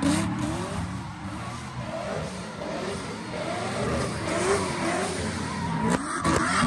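Car engines revving hard, pitch rising and falling, as cars spin donuts with their tyres spinning on loose dirt.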